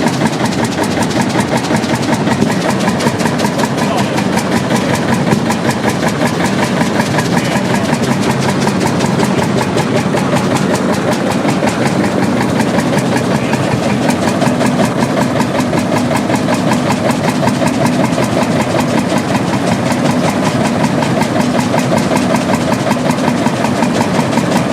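1936 McDonald Imperial Super Diesel tractor engine running steadily with an even, rapid beat.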